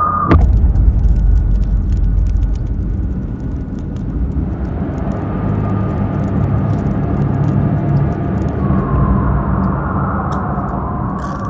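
A loud, steady low rumble like a running motor vehicle, with a sharp crack just after the start and scattered faint clicks. A faint steady tone comes in near the end.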